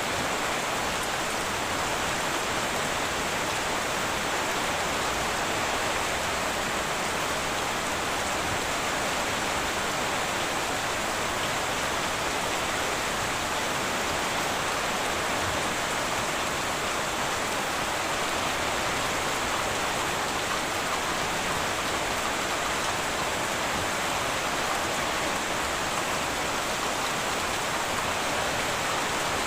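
Heavy rain falling steadily on a tin roof, a dense, even hiss with no break or thunderclap.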